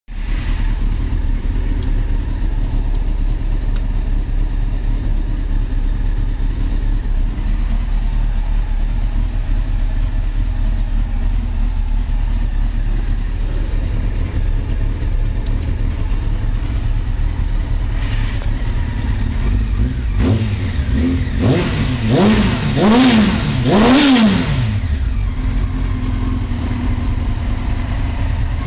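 Honda CBR919 inline-four motorcycle engine idling through an aftermarket Ixil exhaust, steady for most of the time. About two-thirds of the way in, the throttle is blipped about four times in quick succession, the revs rising and falling each time, before it settles back to idle.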